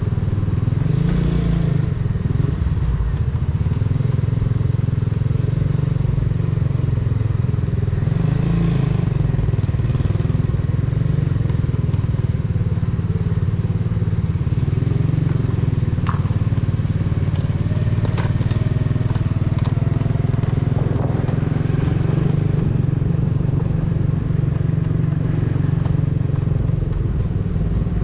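Exhaust of a custom 125 cc motorcycle running steadily while being ridden, a continuous low rumble, with two brief surges of rushing noise about a second in and around eight seconds in.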